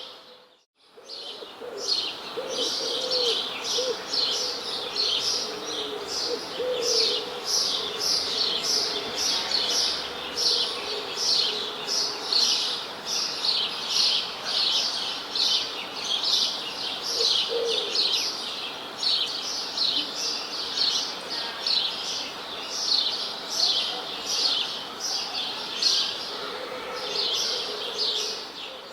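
A dense chorus of small birds chirping, with many quick, high chirps tumbling over one another, and a few lower calls here and there. The sound dips away briefly just after the start and then comes straight back.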